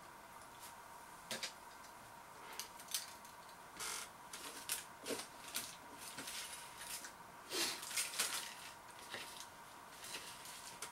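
A man chewing a mouthful of cooked cauliflower in sauce, with wet mouth sounds and lip smacks coming in short, irregular bursts. A faint steady tone runs underneath.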